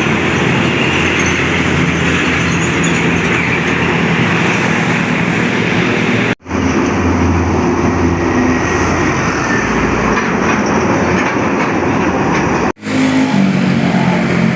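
Heavy trucks on a highway: engines and tyres in a steady loud rush with a low engine hum. The sound breaks off abruptly twice, about six and about twelve seconds in.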